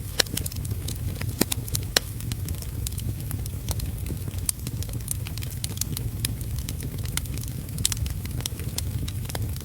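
Wood fire crackling in a fireplace, with frequent irregular sharp pops and snaps over a steady low rushing noise.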